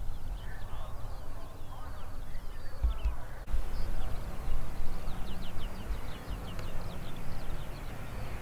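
Outdoor ambience of small birds chirping rapidly, with short falling chirps over a low rumble; the sound changes abruptly about three and a half seconds in.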